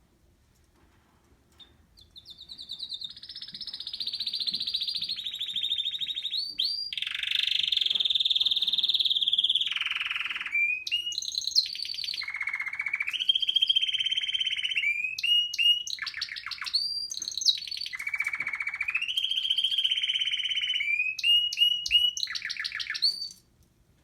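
Male canary singing a long, continuous song of rapid rolling trills, its phrases switching up and down in pitch. It starts about two seconds in and breaks off suddenly near the end.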